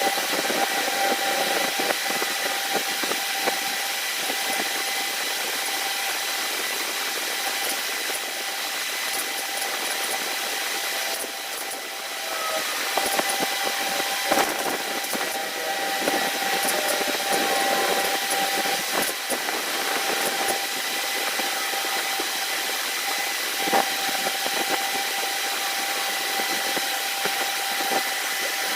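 A machine running steadily, giving a constant whine over a hiss, with a few knocks around the middle.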